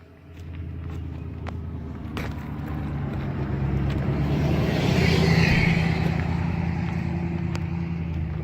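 A motor vehicle's engine hum that comes up just after the start, grows to its loudest about five seconds in, and then eases off, as a vehicle driving past would.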